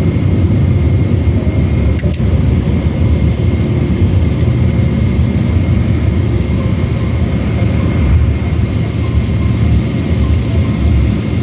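Cabin noise inside a Boeing 777-300ER: a loud, steady low rumble of the engines and airframe, with a faint steady whine and a few light clinks.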